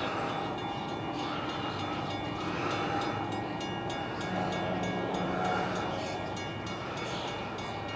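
Union Pacific coal train approaching but not yet in view: a steady, continuous sound of its diesel locomotives and train.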